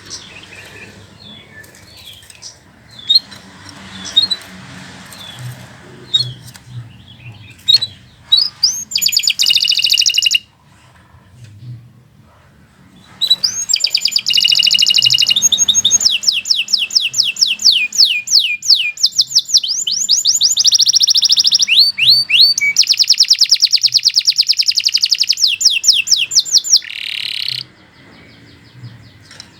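Domestic canary singing: a few scattered chirps, then a short loud song phrase, and after a brief pause a long loud song of rapid trills and fast repeated notes that stops shortly before the end.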